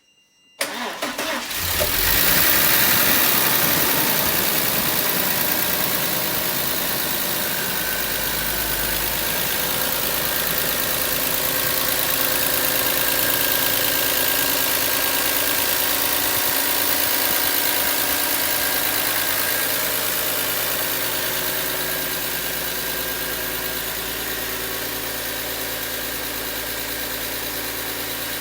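A 2.8-litre engine started for the first time: a brief crank about half a second in, then it catches and runs on steadily at idle.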